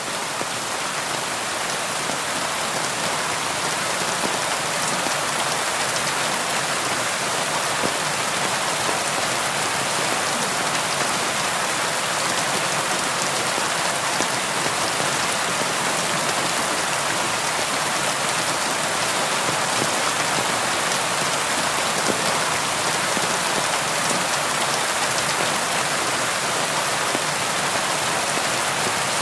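Steady rain falling, a continuous even hiss of drops with faint patters on a surface.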